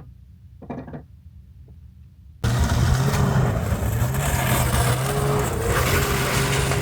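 A short quiet stretch, then an engine starts running steadily about two and a half seconds in, suddenly and loudly, with a low hum under a rushing noise.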